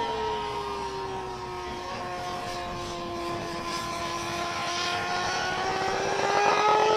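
BMW HP4 Race's inline-four engine running at high revs. Its pitch eases down over the first few seconds, then climbs steadily and grows louder toward the end.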